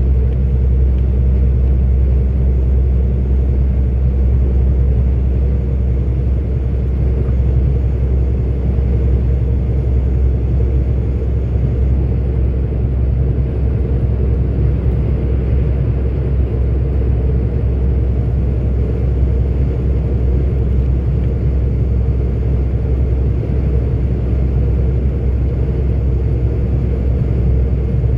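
Articulated truck's diesel engine and road noise while cruising, a steady low drone that stays even throughout.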